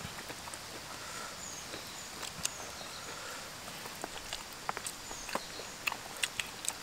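Mouth sounds of people eating chicken and rice by hand: short wet chewing and lip-smacking clicks, scattered at first and coming thicker in the second half.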